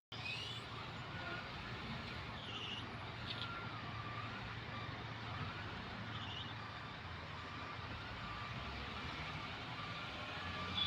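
Heavy equipment engine running steadily with a low hum, overlaid by a faint wavering whine.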